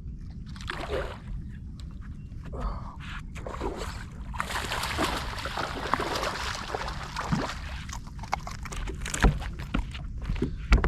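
Water splashing and sloshing for a few seconds in the middle, over a steady low rumble, with a few sharp knocks near the end.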